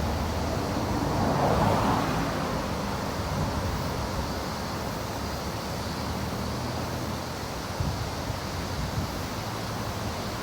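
Steady road traffic noise with wind on the microphone, swelling briefly about one to two seconds in.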